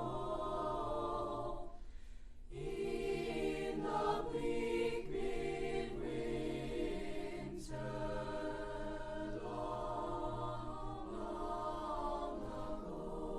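A choir singing long held chords, with a short pause for breath about two seconds in and another brief break later on.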